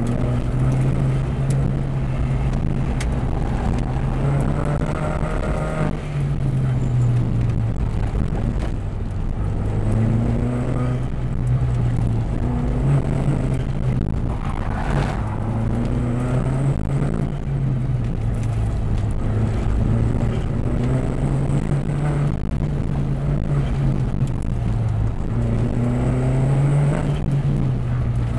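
Volkswagen GTI engine heard from inside the car on an autocross run, its pitch climbing under hard acceleration and dropping back again and again as the driver shifts, brakes and turns through the cones.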